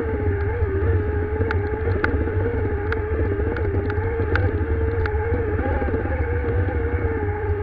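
Motorcycle engine running hard at a steady high pitch that wavers only slightly while climbing a trail, over a heavy low rumble of wind on the microphone, with scattered sharp clicks.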